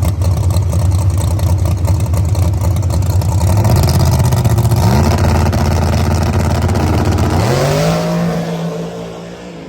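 Drag race car engine at full throttle, its pitch climbing twice as it pulls through the gears, then fading near the end.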